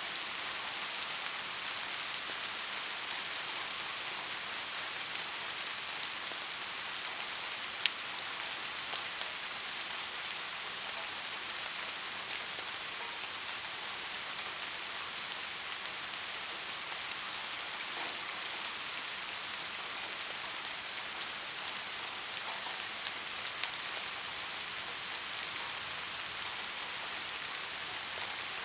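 Steady rain falling, an even hiss with scattered drop ticks and one sharper tick about eight seconds in.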